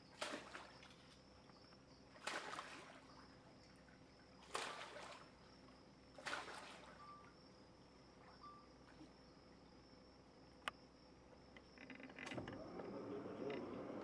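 Saltwater crocodile splashing in the river as it tears at a pig carcass: four short splashes about two seconds apart, over a steady faint drone of insects.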